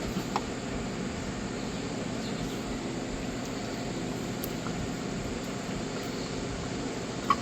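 Steady low background hum with no clear events, broken by a faint click about half a second in and a sharper click near the end.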